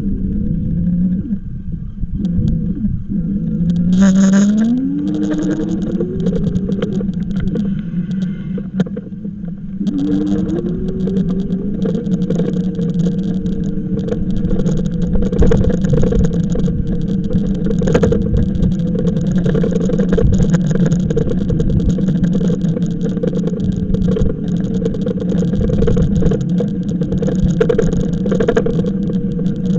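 E-bike motor whining, rising in pitch twice as it picks up speed and then holding a steady tone, over the low rumble of wind on the microphone.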